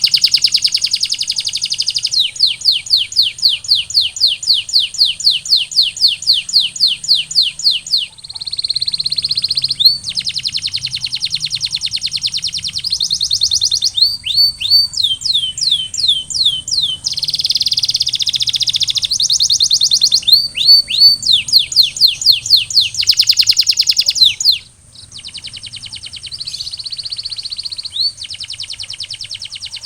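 Male domestic canary singing: long rolling trills of fast repeated notes, changing to new trill types every few seconds with brief breaks.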